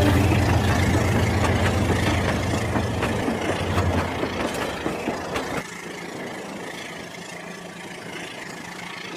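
Rail King toy train's engine sound running after its horn, a low rumble that fades and drops to a quieter hum with light clicks a little over halfway through.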